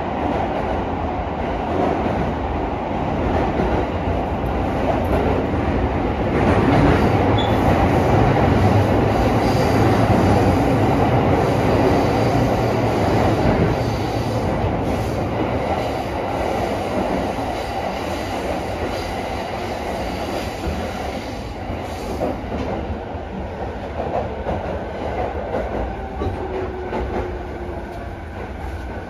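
Interior running noise of a JR East E217 series electric train car in the underground tunnel between Tokyo and Shimbashi: a continuous rumble of wheels on rail. It builds to its loudest in the first half, then eases off steadily as the train slows into the station.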